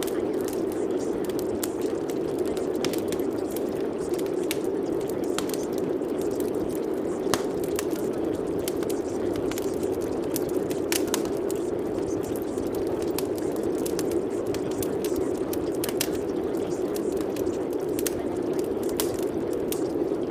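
Steady rain with many scattered sharp clicks of drops hitting surfaces.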